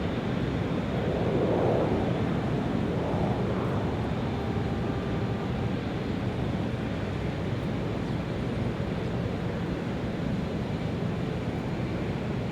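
Large airport terminal ambience: a steady hum with indistinct background murmur, swelling briefly about a second in.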